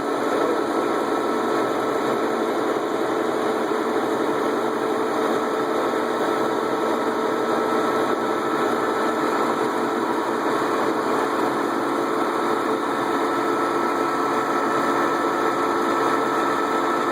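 Lathe running steadily while turning a part: a continuous machine hum with a steady whine that holds the same pitch throughout.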